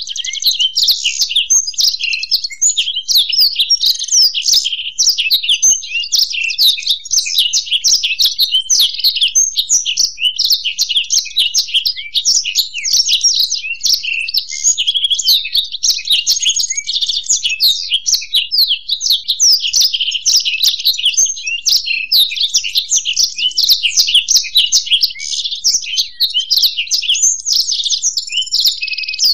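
A blackthroat (black-throated canary) and a European goldfinch singing together in a continuous, unbroken stream of fast, high chirping and twittering.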